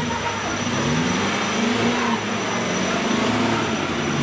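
Off-road 4x4 competition vehicle's engine running under load, its pitch rising and falling as it is revved.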